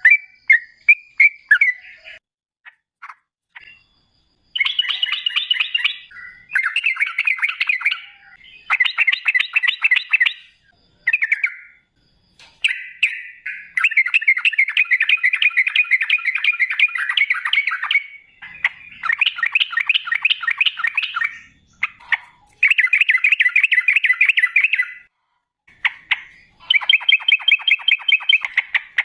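Yellow-vented bulbul (trucukan) singing in long, rapid rolling phrases of fast-repeated chattering notes. The phrases run one to five seconds each, with short pauses between them.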